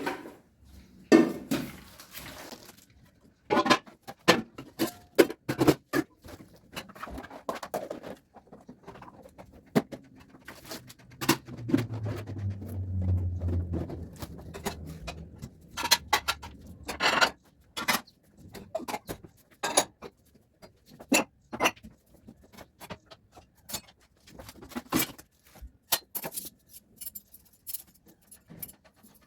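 Dishes and kitchen containers being handled: a long string of knocks, clinks and clatters as things are picked up and set down, with a brief low hum about twelve seconds in.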